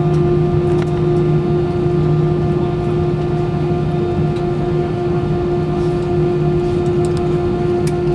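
Steady cabin hum of an Airbus A320-200 taxiing after landing, with a few faint clicks.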